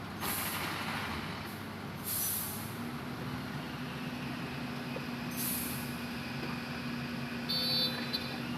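Hitachi Zaxis 200-5G excavator's diesel engine running steadily, with a few short hisses and a brief high squeal near the end.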